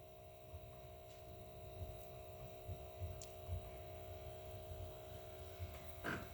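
Faint steady electrical hum with a few soft low bumps.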